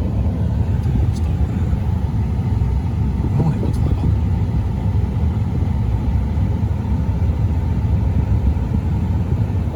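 Truck rolling slowly over a rough farm road: a steady low rumble of engine and tyres.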